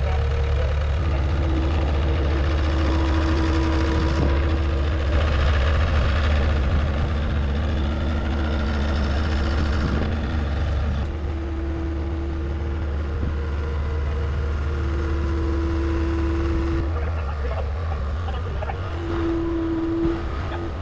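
Heavy equipment's engine running steadily: a low drone, with a higher steady whine that comes and goes several times.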